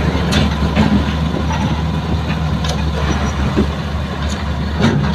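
Heavy diesel machinery running steadily while an excavator loads soil into a dump truck, with a few short sharp knocks over the engine's low drone.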